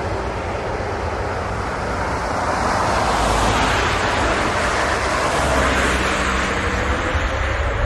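Jet airliner engines running: a loud, steady roar that swells about three seconds in, with a thin engine whine slowly rising in pitch near the end.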